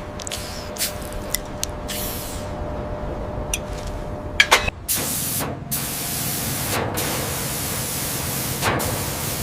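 A low rumble with scattered clicks, then a loud hissing spray about halfway in that breaks off briefly a few times.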